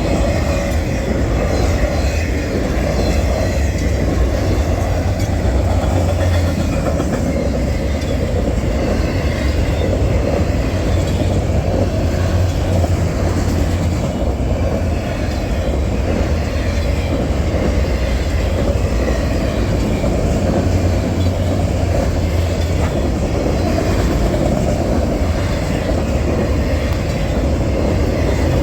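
Freight train rolling steadily past a grade crossing, its wheels rumbling on the rails without a break.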